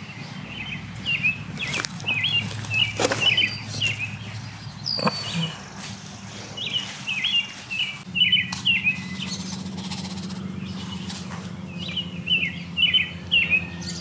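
A songbird singing repeated groups of short, quick chirps, over a few soft knocks and rustles of hands working soil and mulch. A low, steady hum comes in about halfway through.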